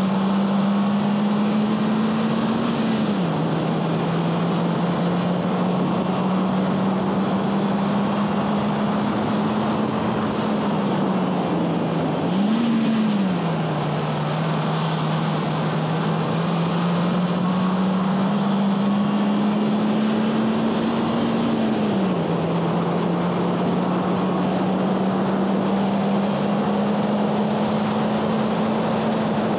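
2011 Honda Fit Sport's 1.5-litre four-cylinder engine running hard at high revs on track. The revs climb slowly through each gear and fall sharply three times, with a quick rev blip about halfway through like that of a heel-toe downshift. Steady road and wind noise lies underneath.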